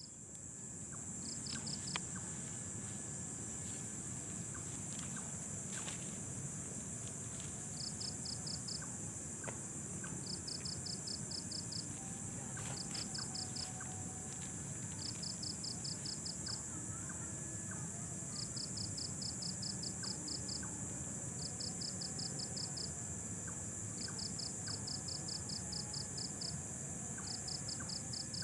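Night insects: a steady high-pitched insect drone, with a cricket giving short rapid trills of about eight pulses every two to three seconds.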